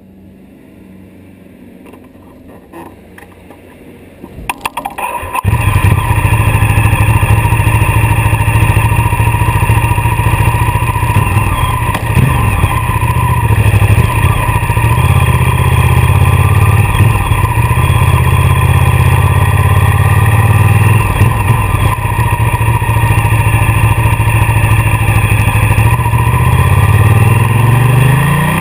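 Ducati motorcycle's V-twin engine cranked on the starter and catching about five seconds in, then running steadily at idle close to the bike-mounted camera. Near the end the revs rise as the bike pulls away.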